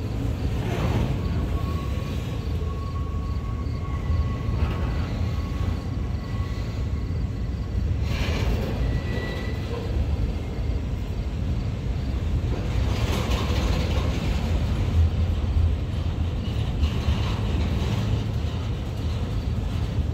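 Double-stack intermodal freight cars rolling past on the rails: a steady rumble of steel wheels on track. A thin, steady high tone rides over it for several seconds in the first half.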